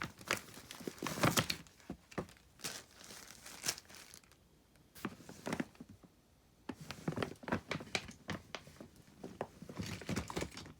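Small plastic toys and mini dolls being handled and set on a plastic playset: irregular clicks, taps and crinkling rustles, with a lull about halfway through.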